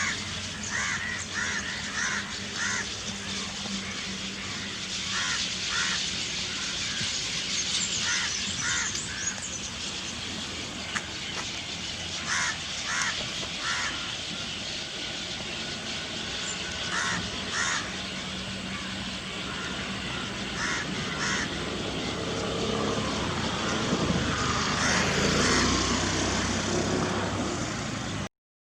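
A flock of birds chattering and calling, with short harsh caw-like calls repeated in quick twos and threes over a constant high chatter. A vehicle grows louder in the last few seconds, and the sound cuts off suddenly just before the end.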